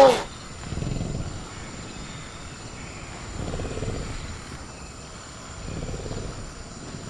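Film-style velociraptor sound effect: the tail of a loud, shrill screech right at the start, then low growls that come back about every two and a half seconds, three in all. A steady high cricket chirr runs underneath.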